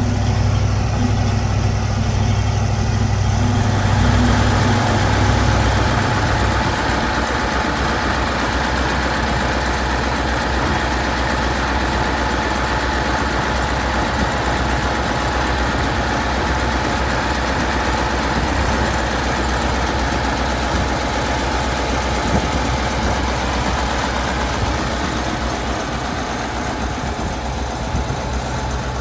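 V8 Massey Ferguson tractor engine running steadily. About four seconds in, the deep engine note gives way to a broader, noisier sound with a steady whine that fades out about two-thirds of the way through.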